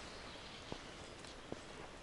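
Footsteps on a forest path, two steps about a second in and near the end, over a steady faint hiss of outdoor forest ambience.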